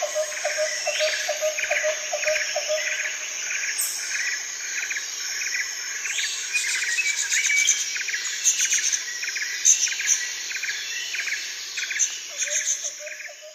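Tropical jungle ambience: a steady chorus of insects buzzing, with a rhythmic pulsing call repeating about twice a second, and birds chirping over it, busier in the second half.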